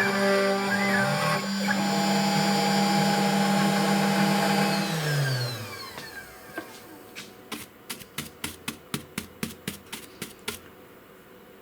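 SainSMART Genmitsu PROVerXL 6050 Plus CNC router spindle running at a steady pitch, then winding down with a falling whine about five seconds in as the carve finishes. It is followed by a quick run of sharp clicks.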